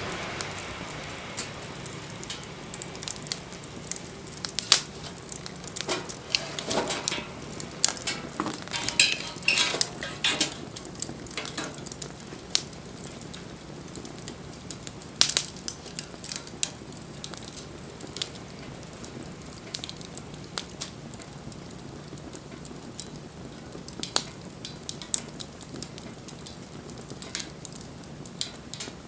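Wood fire crackling, with irregular sharp pops and snaps over a soft steady hiss. The pops are busiest in the first third, with a few louder snaps scattered through the rest.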